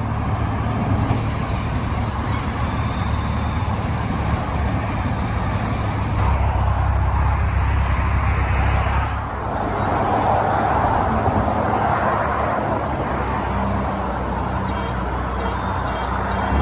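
Classic car engines idling steadily, waiting for a drag-race launch.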